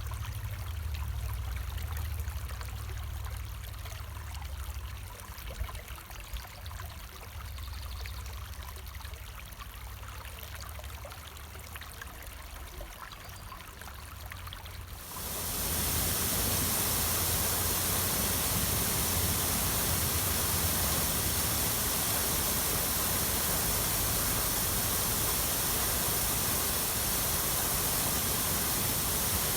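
Running water with a low rumble under it. About halfway through it cuts abruptly to a louder, steady rush of water.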